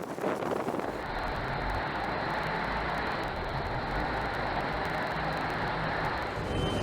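A machine running steadily, with a low rumble and a faint high whine.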